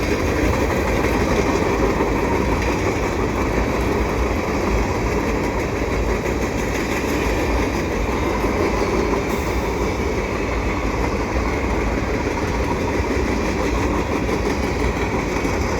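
Freight cars of a CN mixed freight train rolling past, a steady noise of steel wheels on the rails.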